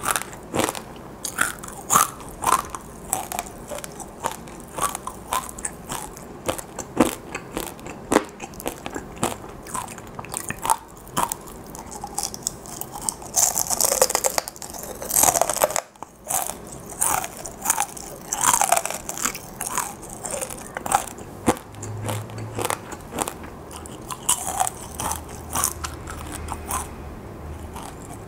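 Close-miked crunching and chewing of crisp fried dried chili pepper chips coated in sugar (Korean gochu-twigak), with many sharp bites at an irregular pace and a denser spell of crackling midway.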